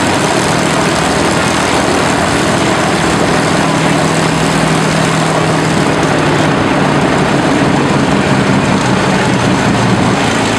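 Avro Lancaster's Rolls-Royce Merlin V12 piston engines running with their propellers turning, a loud steady drone. The pitch shifts slightly about six and a half seconds in.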